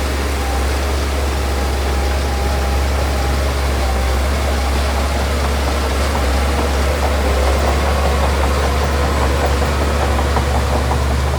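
Heavy diesel earthmoving machinery running steadily, with a fast, regular rattle joining in over the second half.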